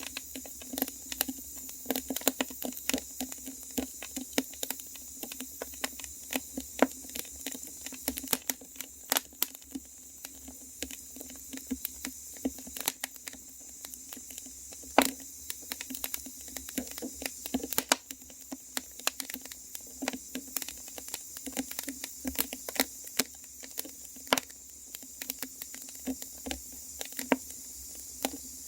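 Fire crackling: a steady run of irregular snaps and pops over a soft hiss, with a few louder pops, the loudest about halfway through.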